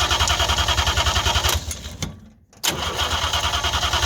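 1958 DKW pickup's three-cylinder two-stroke engine being cranked over by the starter in rapid, even pulses without catching. The cranking stops for about a second roughly midway, then starts again.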